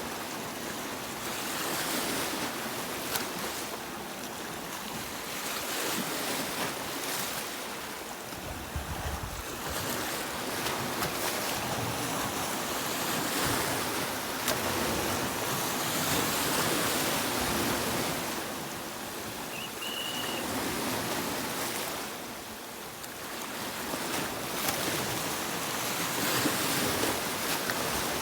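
Sea waves breaking and washing up on a beach, the surf swelling and ebbing every few seconds.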